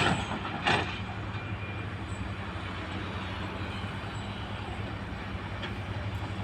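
Heavy diesel engine of earthmoving machinery running steadily, with two sharp metallic clanks in the first second.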